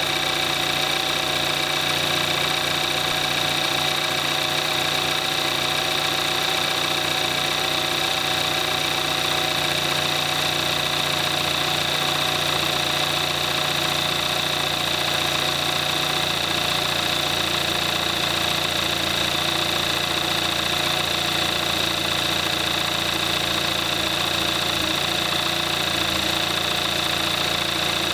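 The 2014 Kia Forte5's 2.0 GDI four-cylinder engine idling steadily a few minutes after a cold start, at about 22,700 miles on conventional 5W-20 oil, with a steady high-pitched whine over the running.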